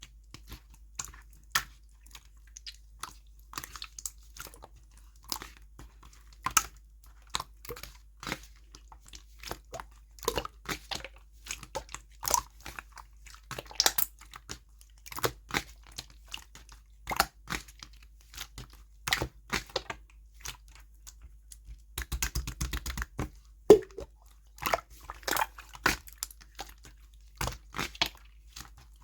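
Clear slime being squished and pressed by hand, giving irregular sticky clicks and pops, with a quick rattling run of tiny pops about three-quarters of the way through.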